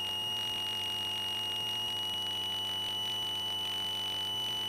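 Steady high-pitched electrical whine with a low hum on a light aircraft's intercom audio feed; the engine itself is barely heard.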